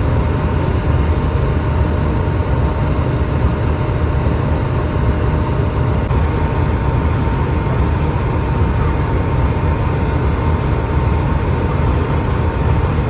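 Diesel-electric locomotive idling steadily: a continuous deep rumble with a faint steady whine above it.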